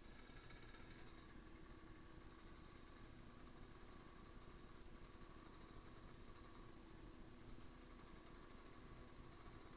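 Faint, steady idling of a 50 cc two-stroke moped engine.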